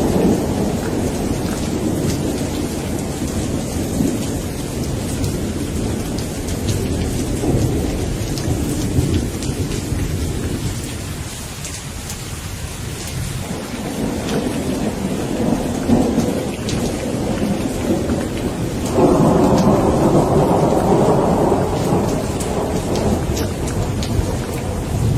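Steady rain falling with rolling thunder rumbling underneath. The rumble eases off in the middle, then a louder clap of thunder breaks in suddenly about three quarters of the way through and rolls on.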